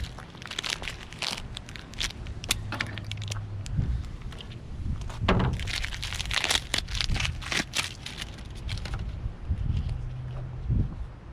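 Stickers being scraped and peeled off windshield glass with a razor blade: an irregular run of short scratchy scrapes and crinkles that thins out about nine seconds in.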